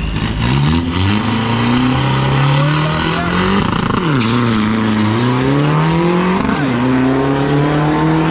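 Diesel drag-racing pickup truck launching from the line and running hard down the strip, its engine note climbing steadily, dropping sharply at each of two upshifts and climbing again.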